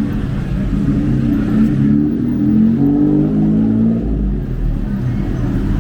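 Street traffic with a motor vehicle engine close by, its pitch rising and shifting as it accelerates.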